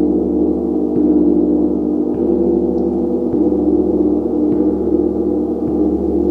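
Gong played continuously, struck a little under once a second, building a dense, sustained wash of overlapping ringing tones.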